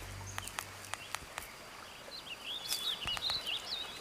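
A small bird calling, with a run of short, high chirps that sweep quickly up and down about two to three seconds in, over scattered light clicks and rustles.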